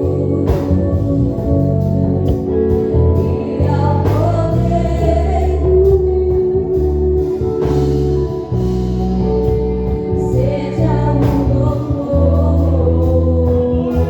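Gospel praise song: singers over a band with steady bass notes and a regular beat.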